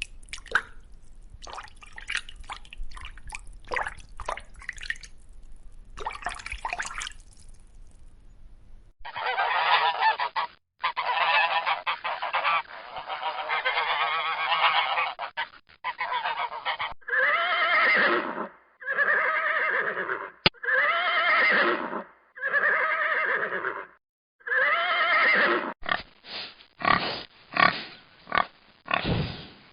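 Domestic geese honking. It begins about nine seconds in after faint clicking, starting as an overlapping flock chorus, then about five separate drawn-out honks that rise and fall in pitch, then quick short honks near the end.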